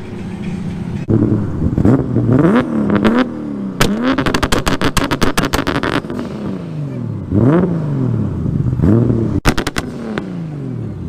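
Car engine revving hard several times, its pitch sweeping up and dropping back with each rev. There is a fast run of sharp popping from about four to six seconds in, and another short burst near the end.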